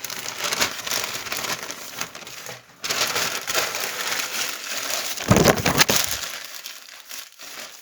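Paper crumpling and rustling as kindling is readied to light the wood load in a stove's firebox, with a louder burst about five seconds in.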